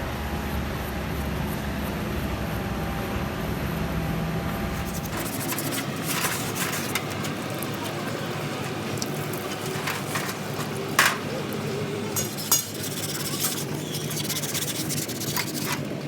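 Workshop sounds during tractor engine repair: a steady low hum that stops suddenly about five seconds in, then scattered clicks and knocks of hand work, two of them sharper, about eleven and twelve and a half seconds in.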